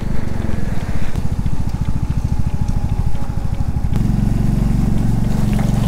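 Royal Enfield Classic 350's single-cylinder engine idling with a fast, even low pulsing while the bike stands still. About four seconds in, a steadier low drone joins it.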